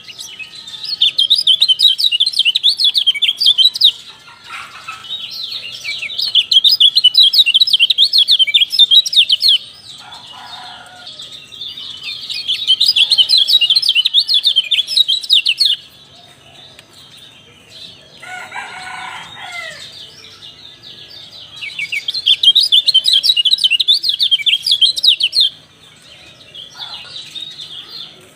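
Kecial white-eyes calling in fast, high chirping phrases a few seconds long, repeated with short pauses between them. About two-thirds of the way through, in one pause, a lower-pitched bird call is heard.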